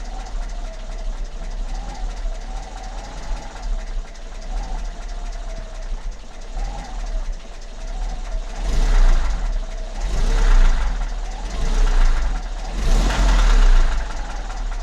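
ZMZ-402 inline-four petrol engine running with a steady rapid knock, which the owner puts down to worn piston pin–connecting rod joints in all four cylinders. In the second half it swells louder four times.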